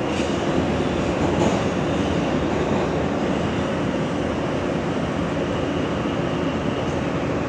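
R160 subway car running between stations, heard from inside the car: a steady rumble of wheels on rail and traction motors, with a faint high whine over it.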